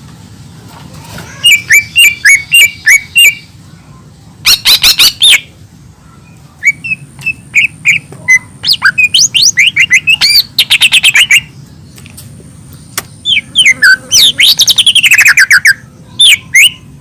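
Cucak ijo mini, a small green leafbird, singing in loud bursts of rapid, varied chirps, sweeping whistles and trills, with short pauses between phrases.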